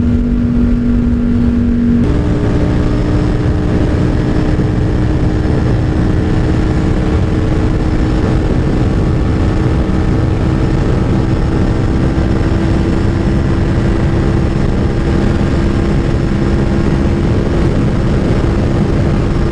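Aprilia Tuono 1000R V-twin engine pulling steadily under a rider at road speed, with heavy wind rush over the microphone. About two seconds in, the engine note steps up in pitch, then climbs slowly as the bike gathers speed.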